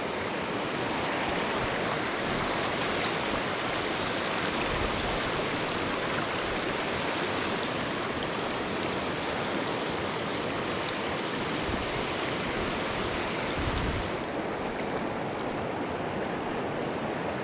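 Mountain stream water rushing steadily, with two brief low bumps about five seconds in and near the end.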